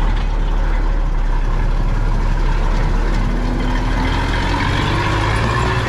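Motor vehicle engine running steadily with a low rumble, its pitch rising slowly about halfway through.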